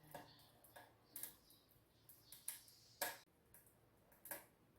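Faint, irregular crackles and pops of firewood burning in a closed wood stove, about six sharp snaps spread unevenly over a few seconds.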